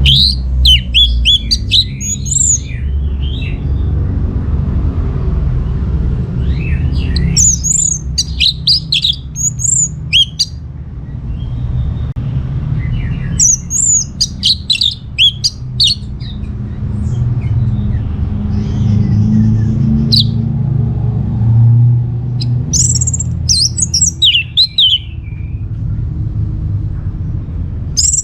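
Orange-headed thrush singing: about five high, varied, quickly changing phrases, each a couple of seconds long, with pauses of a few seconds between them, over a steady low rumble.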